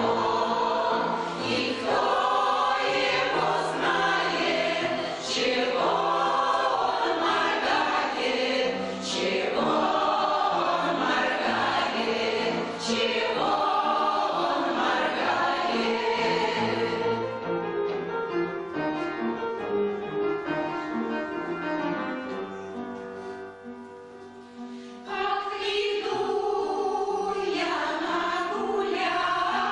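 Choir of labour veterans singing with instrumental accompaniment. About two-thirds through the singing settles into held notes and grows quieter, then the full choir comes back in at full strength.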